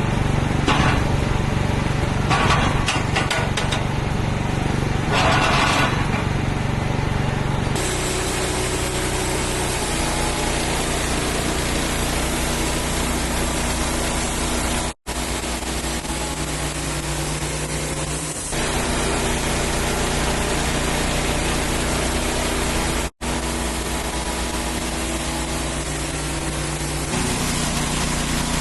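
Wood-Mizer portable bandsaw mill running steadily as its band blade saws through a black walnut log. It is louder and harsher for the first several seconds, and the sound breaks off for an instant twice.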